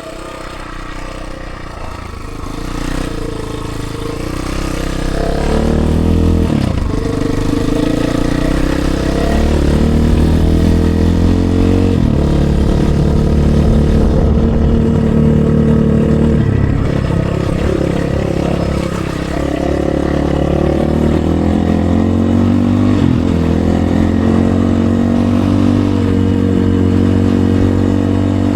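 RVM CZ 250 T Pro 250 cc enduro motorcycle engine under way, revving up and pulling through the gears. Its pitch climbs and drops back at each shift, several times. It grows louder over the first few seconds, then stays loud.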